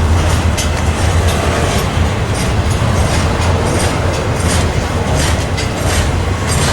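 Train cars rolling past, their wheels clacking over rail joints in a quick, uneven rhythm over a steady low rumble.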